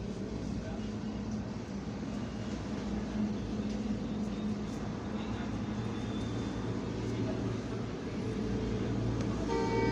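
Vehicle engine running steadily at idle, a continuous low hum, with a brief pitched tone rising above it near the end.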